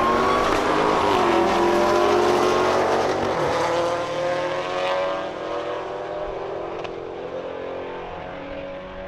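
A drag-racing car engine at full throttle, accelerating hard. Its pitch climbs and drops back with each upshift, and it fades as the car pulls away down the track.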